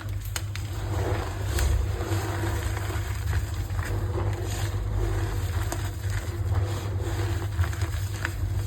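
Gym chalk being squeezed and crumbled in the hands, with scattered short crunches and crackles over a steady low hum.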